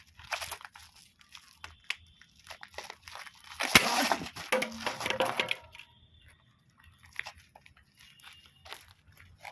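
Scattered scuffing and crunching noises, with one sharp hit about four seconds in, followed by a couple of seconds of louder rustling and scraping.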